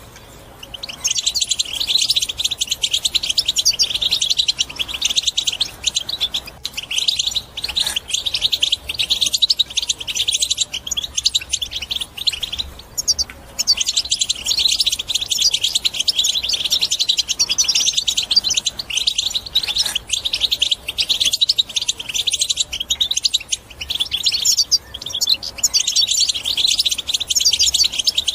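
European goldfinch singing a fast, chattering twittering song, the busy phrase goldfinch keepers play to coax silent birds into singing. The song breaks off briefly twice and picks up again.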